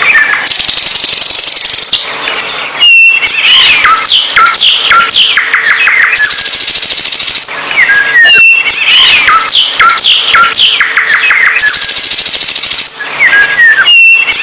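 A songbird singing loudly and vigorously: the same phrase of a held whistle, falling sweeps and a fast run of chirps comes back about every five and a half seconds, with a steady high buzzing trill between phrases.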